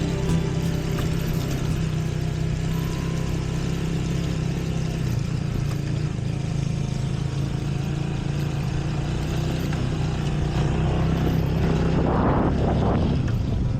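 Motorcycle engine running steadily while riding, under a rushing noise that reaches across all pitches. A brief louder noise comes in about twelve seconds in.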